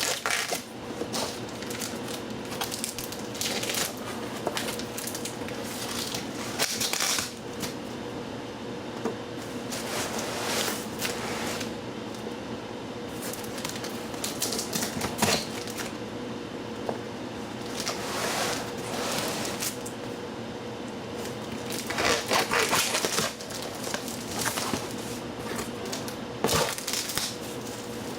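Cardboard shipping box being opened and its contents and packing handled: irregular rustling, scraping and crackling in bursts, over a steady low hum.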